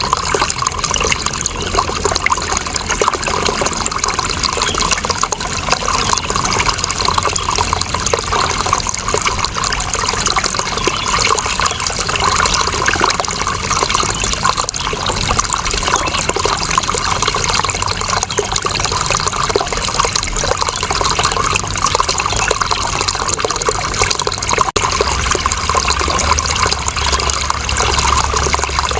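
Running water flowing steadily, a continuous splashing rush with no pauses. A low rumble beneath it grows slightly stronger near the end.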